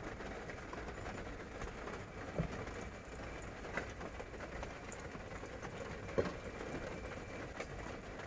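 Rain falling steadily as an even hiss, with a few louder single taps of drops.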